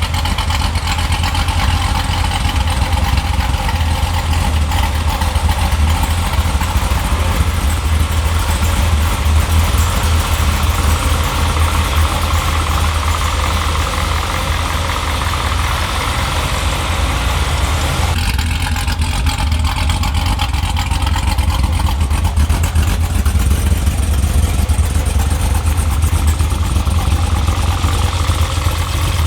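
Corvette C7's 6.2-litre LT1 V8, freshly rebuilt with a stage 1 Brian Tooley camshaft, idling steadily with a deep exhaust rumble.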